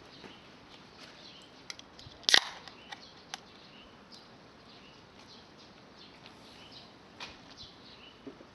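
Wood fire crackling: scattered sharp pops from burning wood, one loud crack a little over two seconds in and a few smaller ones after it.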